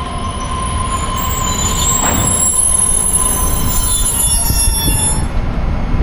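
Train wheels squealing against the rails: several high-pitched squeal tones over a low rolling rumble, the squeal dying away about five seconds in.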